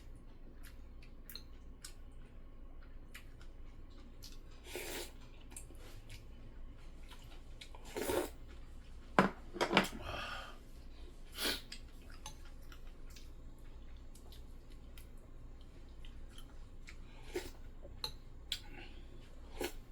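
A person eating: chewing, with scattered small clicks of chopsticks and spoon against dishes and a few louder noises in the middle.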